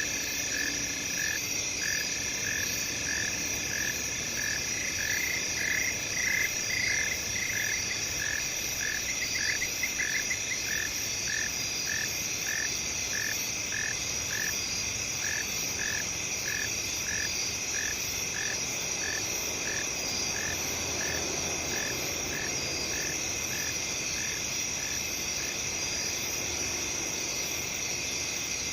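Night field chorus of crickets and other insects chirring steadily, with one creature's short chirp repeating about one and a half times a second. Two brief rapid trills join in during the first third.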